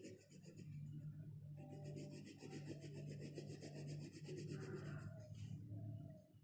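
Brown colour being scrubbed quickly back and forth across paper, a soft steady scratching of the colouring tip rubbing on the page, which fades out near the end.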